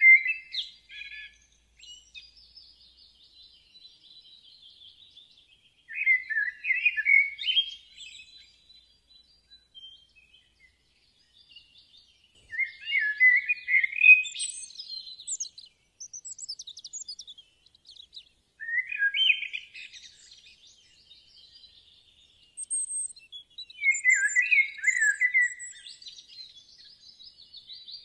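Songbird calling in phrases of rapid notes, each one to two and a half seconds long and coming about every six seconds, with fainter high chirps between them.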